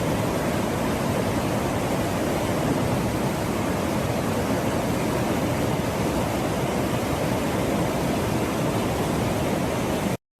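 Steady, loud rush of fast-flowing floodwater in a flooded wadi.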